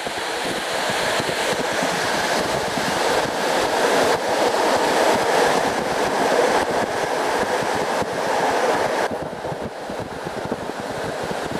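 Passenger train carriage running at speed, heard from inside at the window: a steady rush of wheel-on-rail noise, easing off a little about nine seconds in.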